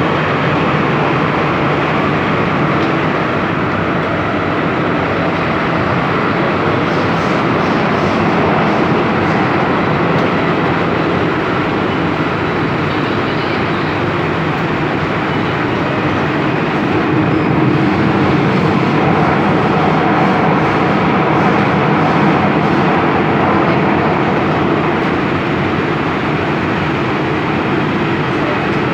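MTR M-train electric metro train running at speed between stations: a steady rumble of wheels on rail, a little louder from a little past halfway.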